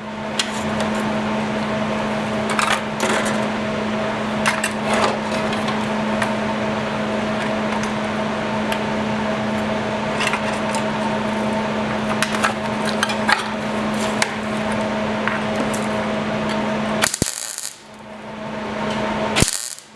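A metalworking power tool runs steadily on the rusted steel motorcycle seat pan with a constant hum, with light metallic clicks now and then. It stops about three seconds before the end, and two short sharp bursts of noise follow.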